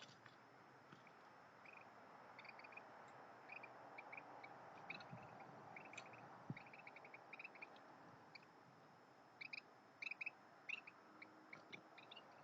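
Backyard birds chirping faintly: many short, high chirps in quick clusters, louder in the last few seconds.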